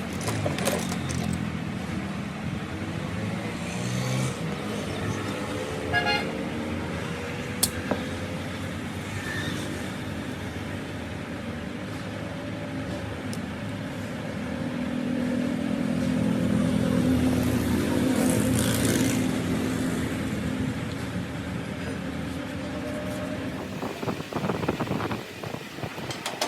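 Motor vehicle engines running and passing, their pitch gliding slowly and swelling louder for a few seconds in the middle. There are a couple of short sharp clicks.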